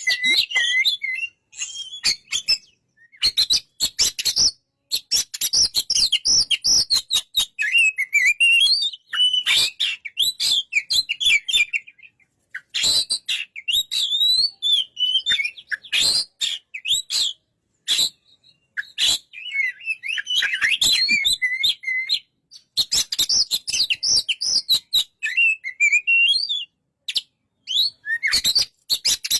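Oriental magpie-robin (kacer) singing a long, varied song of quick whistled and chattering phrases with short pauses between them, mixed with many sharp clicks.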